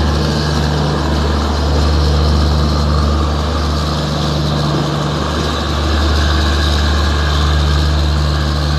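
Steady low mechanical hum of a departing express train as its last coach pulls away along the track. The hum dips slightly midway and then holds.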